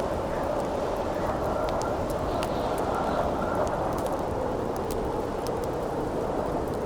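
Steady wind blowing, with a crackling campfire giving scattered sharp pops and snaps over it.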